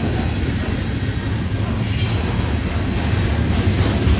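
A train rolling past, its railcars making a steady low rumble, with brief high-pitched wheel squeals about halfway through and again near the end.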